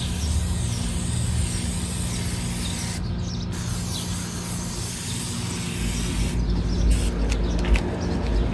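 Aerosol can of paint stripper spraying onto a steel helmet in long hissing bursts, breaking off briefly about three seconds in and again in short stops between six and seven and a half seconds.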